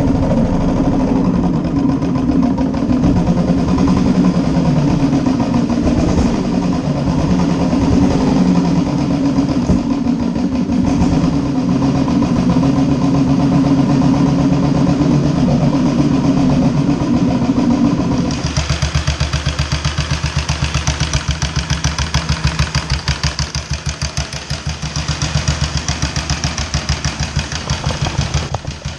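1941 Matchless G3L's single-cylinder engine running steadily, then about two-thirds of the way through the sound changes abruptly to an even, pulsing beat.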